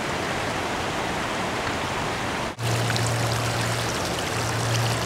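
Floodwater running steadily, an even rushing wash. About two and a half seconds in it cuts out for an instant, and after that a steady low hum sounds under the water.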